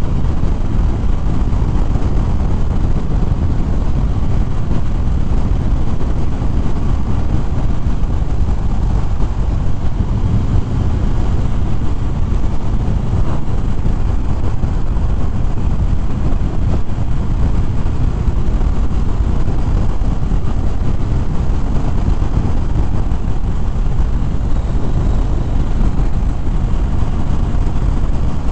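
A Harley-Davidson Fat Bob being ridden at steady cruising speed: a steady rush of wind on the helmet microphone with the engine's low drone under it.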